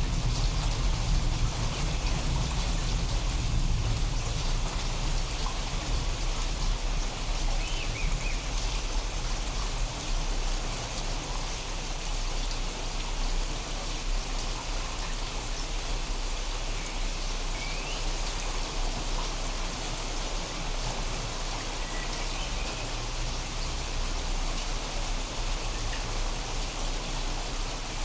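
Steady rain falling, with a deep low rumble that eases over the first ten seconds or so. A few faint short chirps are heard near the middle.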